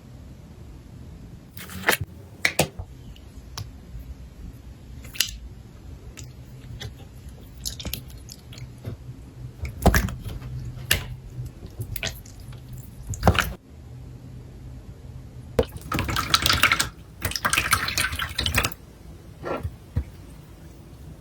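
Slime being squeezed and poked by hand, with scattered sharp pops and clicks, then a stretch of dense crackling about sixteen to nineteen seconds in.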